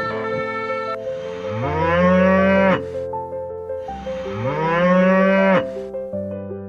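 A cow mooing twice, each moo a long call that rises in pitch and then holds, over background music.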